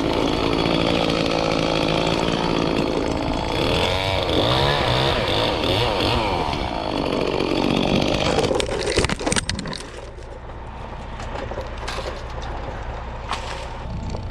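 Chainsaw running hard, its pitch sagging and recovering a few seconds in as it takes load in a cut. It stops about nine and a half seconds in, leaving a lower, steady engine hum.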